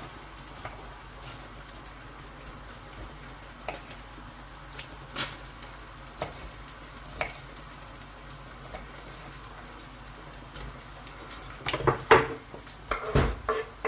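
Chicken, garlic and broccoli florets sizzling in a wok with a few sharp pops. Near the end a utensil starts clattering and scraping against the wok as the stir-fry is stirred.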